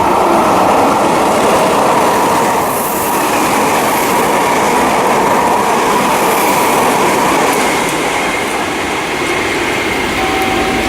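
Meitetsu 2000 series μSKY electric train passing through a station at speed: a steady loud rush of wheels on rail, with a faint whine, easing slightly near the end.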